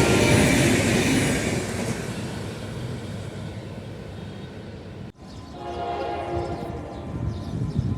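General Electric diesel locomotive sounding its horn as the train runs by, the horn and train noise fading over the first two seconds. After a sudden break about five seconds in, a fainter horn sounds again and the train's rumble builds toward the end.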